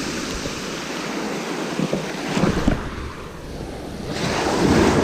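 Sea waves washing on the shore, with wind buffeting the microphone; a wave surges up and breaks near the end.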